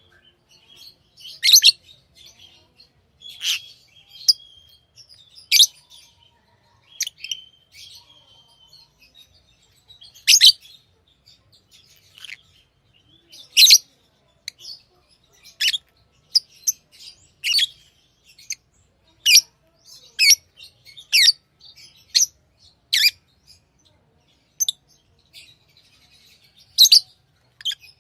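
Pet lovebirds chirping: short, sharp, high-pitched chirps every second or two, with softer calls in between.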